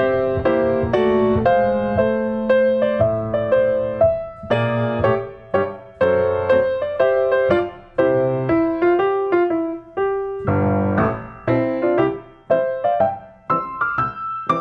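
Background piano music: a melody of struck notes that each ring and fade, over lower notes.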